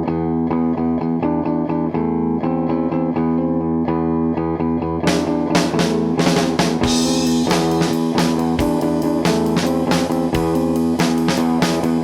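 Rock band music: guitar and bass ring out on their own, then drums and the full band come in about five seconds in.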